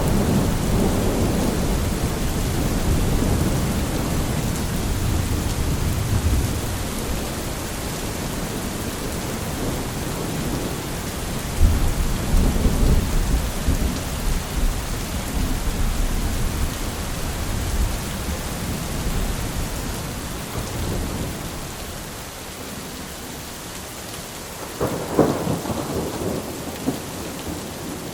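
Steady rain hissing with rolling thunder: long low rumbles through the first half, a sharp crack about twelve seconds in, and another crack near the end.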